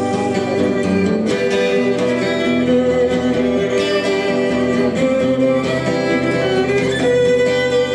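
Guitar and violin playing an instrumental break, the violin carrying sustained melody notes over the guitar accompaniment.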